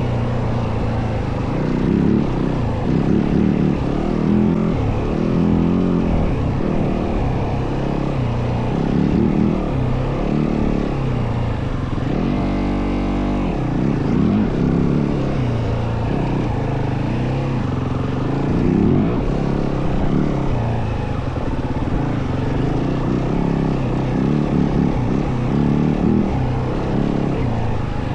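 Yamaha WR450F dirt bike's single-cylinder four-stroke engine running under way, its revs rising and falling through the gears. The pitch holds steady for about a second around the middle.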